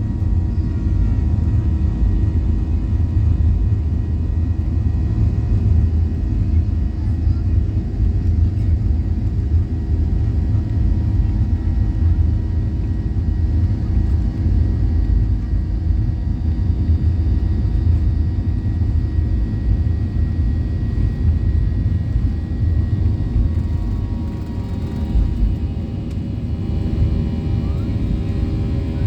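Cabin noise of a Boeing 737-800 in flight: its CFM56-7B jet engines and airflow make a loud, steady rumble, with several steady engine tones above it.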